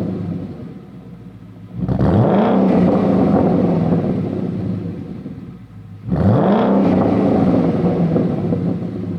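Ford Mustang GT 5.0L V8 revving through a Flowmaster Outlaw axle-back exhaust: it settles toward idle, then is blipped sharply twice, about two seconds in and again about six seconds in, the pitch shooting up and then easing back down each time.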